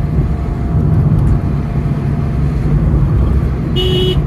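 Steady low rumble of a motor vehicle driving, with two short horn beeps near the end.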